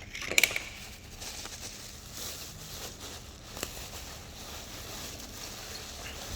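Packaging being unwrapped and parts handled: rustling and crinkling, with a short cluster of sharp clicks about half a second in and a single click near the middle, over steady wind noise.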